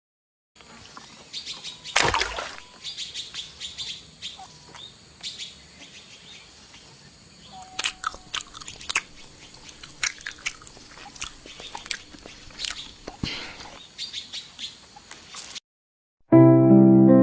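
Small birds chirping: many short, sharp calls scattered over a steady high hiss. The sound cuts off suddenly about a second and a half before the end, and keyboard music starts just before the end.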